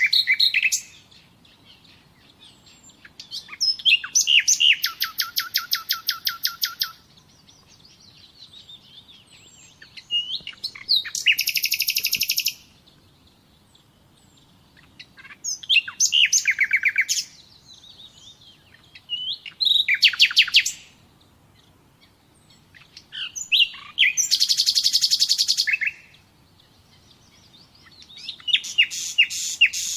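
A songbird singing loud phrases every four to five seconds. Each phrase opens with a few high chirps and runs into a fast trill of evenly repeated notes lasting one to three seconds, with soft twittering in the gaps.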